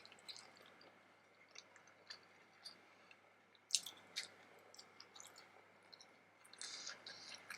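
Close-up mouth sounds of a person eating steamed vegetable momo dumplings: soft, wet chewing with scattered small clicks, a sharper click about halfway through and a denser stretch of chewing near the end.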